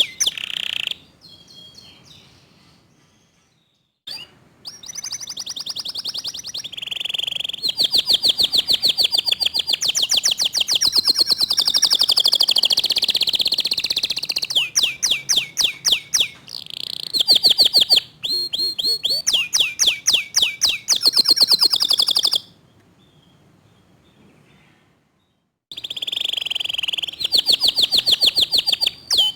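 Domestic canary singing in rapid, tightly packed trills of repeated high notes. The song comes in several phrases, broken twice by pauses of about three seconds.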